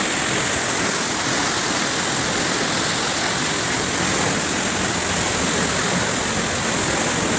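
Waterfall: water falling from a height and splashing, a steady, even rushing noise.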